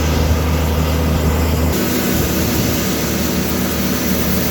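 Tractor engine running steadily under load while pulling a grain cart, a continuous drone with a hiss above it. About two seconds in the low hum shifts and the hiss grows stronger.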